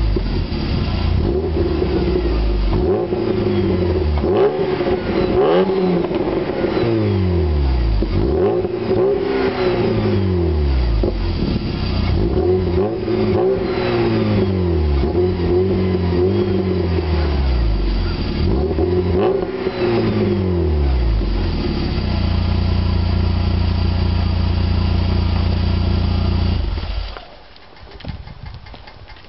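1996 VW Jetta's 2.0L four-cylinder through a catless exhaust with a Thrush glass pack and Hooker Aero chamber muffler, revved in about a dozen quick blips that rise and fall back. It then settles to a steady idle, and the sound drops away sharply a couple of seconds before the end.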